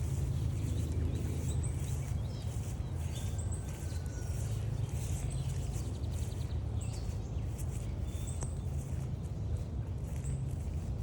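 Several songbirds calling and singing: short high chirps repeating throughout, a thin whistle about three seconds in and a quick trill near seven seconds, over a steady low rumble.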